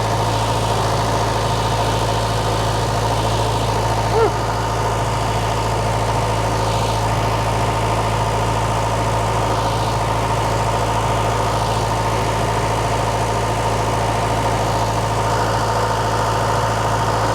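Case 1840 skid steer's diesel engine running steadily at an even speed, with one brief squeak about four seconds in.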